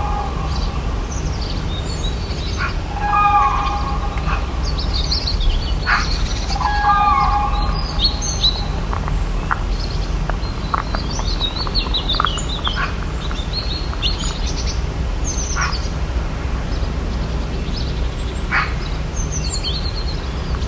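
Forest ambience with several birds chirping and calling. A lower call repeats three times, about every three and a half seconds, in the first half. A steady low background noise runs beneath.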